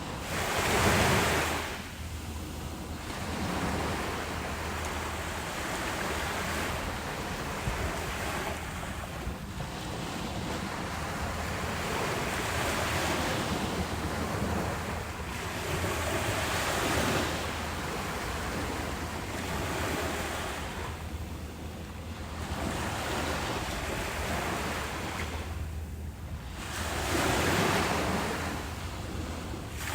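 Ocean waves breaking on a beach, each wash swelling and fading every few seconds, the strongest about a second in and again near the end, with wind rumbling on the microphone underneath.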